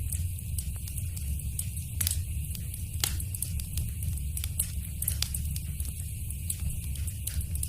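Wood fire burning in a fireplace: a steady low rumble and hiss with irregular sharp crackles and pops, the loudest about two and three seconds in.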